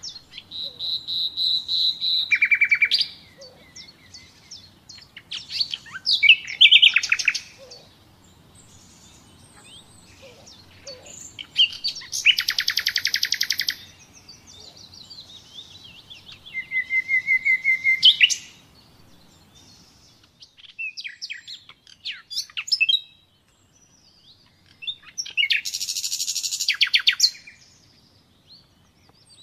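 Common nightingale singing: a string of separate phrases, each a fast run of repeated notes or a short held whistle, with pauses of about a second between them.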